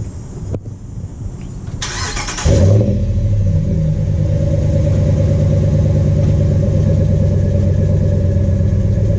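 A 2016 Ram 1500 Sport's Hemi V8 is started warm, not from cold. The starter cranks briefly about two seconds in, then the engine catches with a short flare and settles into a steady idle.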